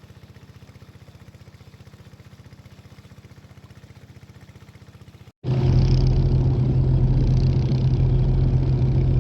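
A boat's engine running: for the first five seconds a quiet, fast, even pulsing, then, about five seconds in, a much louder steady engine drone with a low hum.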